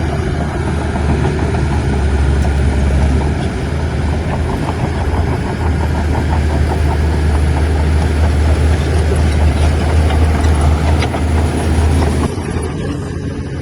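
Heavy earthmoving machine's diesel engine running steadily with a loud, low drone and faint clatter over it. About a second before the end the sound changes abruptly, turning duller and a little quieter.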